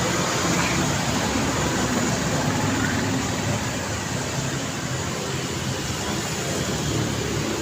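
Steady road traffic noise: a continuous hum of vehicle engines with road noise, easing slightly in the middle.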